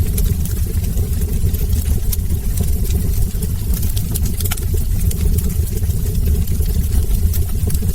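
Wood fire burning in a brick fireplace: a steady low rumble under irregular sharp crackles and pops from the burning logs, several of them within these seconds.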